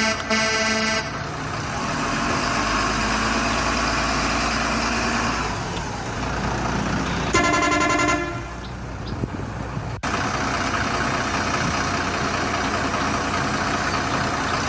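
A vehicle engine running steadily, with two short horn honks: one at the start and one about seven seconds later.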